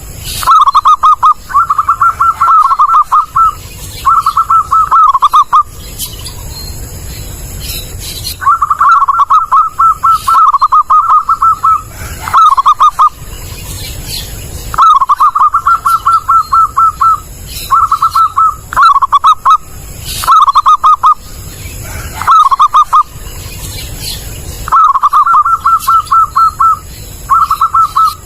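Zebra dove cooing: phrase after phrase of quick, rolling, stuttered notes, each phrase a second or two long, repeated with short pauses.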